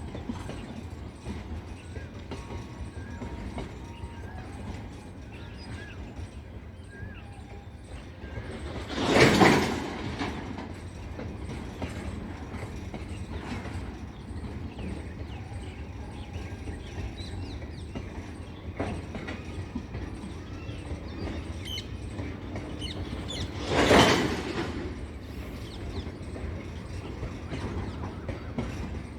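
A long goods train rolling past, its wagons making a steady low rumble, with two brief loud rushes: one about a third of the way in and another near the end.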